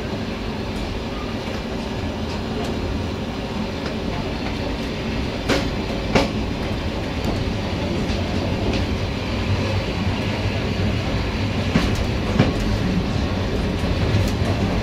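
Railway passenger coach rolling along the track, a steady rumble broken by pairs of sharp clicks as the wheels cross rail joints, once about halfway through and again near the end.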